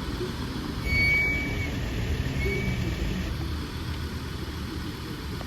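Low, steady rumble of a road vehicle's engine, getting louder about a second in as it passes. A short high whine sounds twice.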